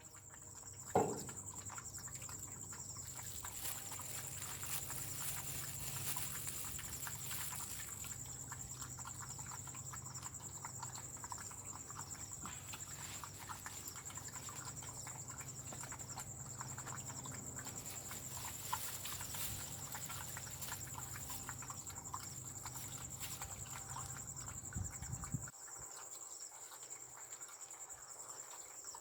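Insects, crickets by their sound, trilling steadily on one high note. Under them runs a low hum that cuts off near the end, and there is a single knock about a second in.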